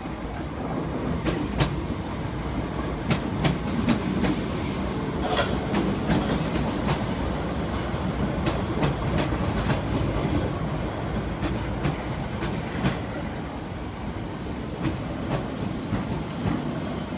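Southern electric multiple-unit train rolling slowly along the platform, with a steady low rumble and irregular clicks of its wheels over the rail joints.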